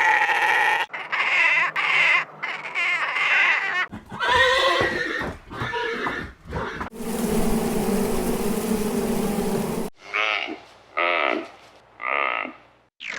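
A string of different animal calls cut one after another: repeated pitched calls for the first few seconds, a long harsh call from about the middle, then three short calls near the end.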